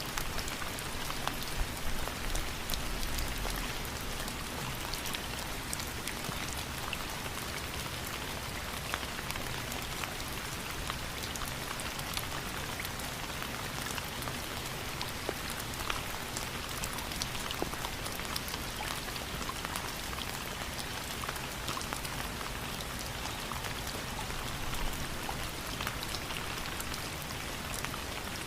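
Steady rain falling and pattering on a surface, an even hiss dotted with many individual drop ticks.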